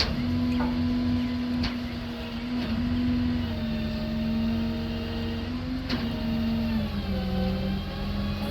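Bucket truck running steadily with a strong, even pitched hum that sags a little in pitch and recovers near the end, with a few sharp clicks over it.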